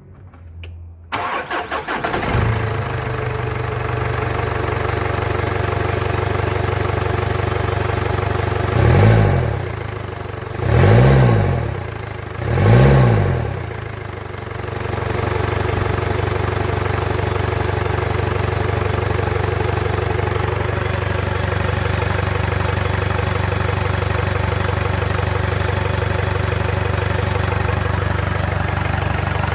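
2008 Mazda BT-50 engine cranking and catching about a second in, then settling into a steady idle. It is revved three times in quick succession around the middle, each rev rising and falling back, then returns to an even idle.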